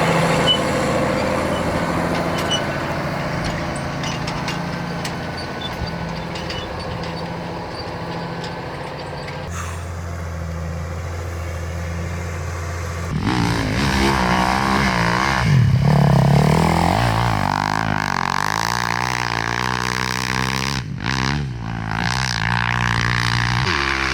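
Vehicle engine running, in several abruptly changing segments: steady at first, then revving up and down from about 13 seconds in.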